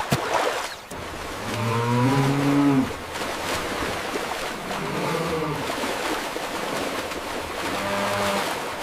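Deep, low lowing calls from a large animal, three times: a long call about two seconds in that drops in pitch at its end, then two shorter ones. A steady rushing noise runs underneath.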